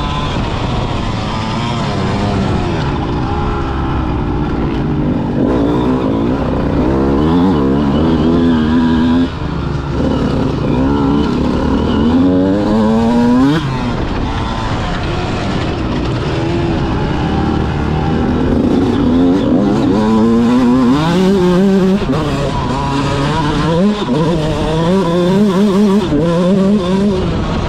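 Motocross bike engine revving hard and backing off over and over, its pitch climbing and dropping every second or two as it accelerates out of turns and shifts gear.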